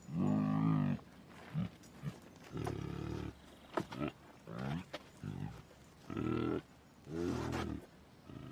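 Tiger calling in a series of short, pitched calls, about one a second, the first the loudest.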